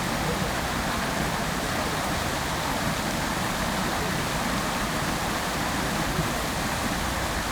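Water from a public fountain splashing steadily, an even rushing hiss with no breaks or changes.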